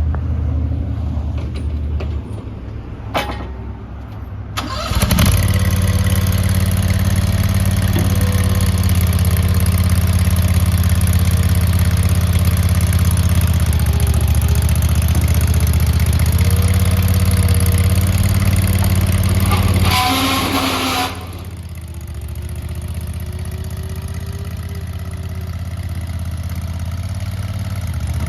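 Skid steer loader engine running. It is throttled up to a louder, higher run about five seconds in, held there, then dropped back to a quieter idle about twenty-one seconds in.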